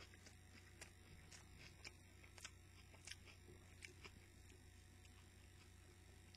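Faint chewing of a mouthful of burger: soft, irregular clicks every half second or so over a low steady hum.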